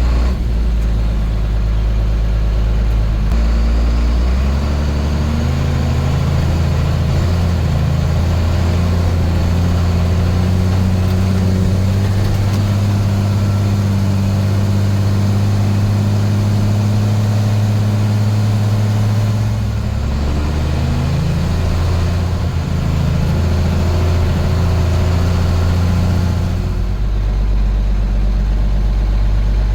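1987 International S1900 dump truck's DT466 inline-six turbo diesel running under way, heard from inside the cab. Its pitch steps up about three seconds in and holds steady, then drops about twenty seconds in and again near the end.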